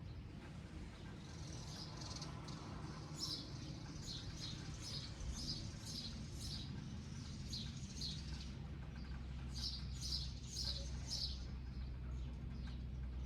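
Small birds chirping, with many short high chirps repeated through most of the stretch, over a low steady rumble.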